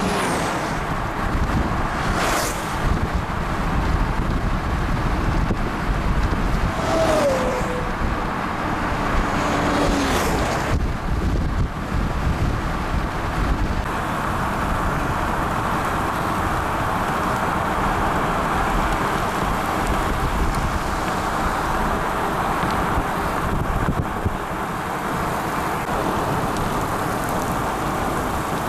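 Steady rumble of a moving vehicle's road noise mixed with wind, with a couple of brief sliding tones about a third of the way in.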